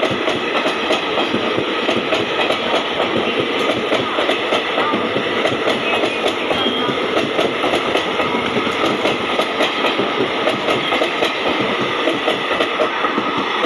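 Express train coaches passing at speed, their wheels clattering over the rail joints in a rapid, steady rhythm over a continuous rumble.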